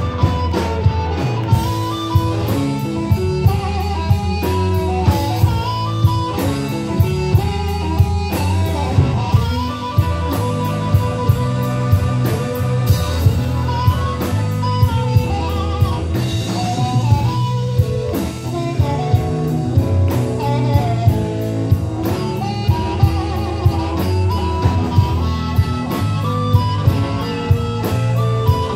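Blues band playing an instrumental passage: guitar over bass and a drum kit keeping a steady beat.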